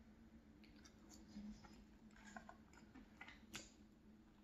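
Faint eating sounds at a low level: quiet chewing with soft mouth clicks and a few light clicks and taps, the sharpest about three and a half seconds in.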